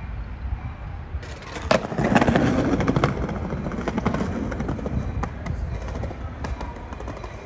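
Passenger train rolling in with a low rumble and irregular clicks and clatter, loudest about two seconds in.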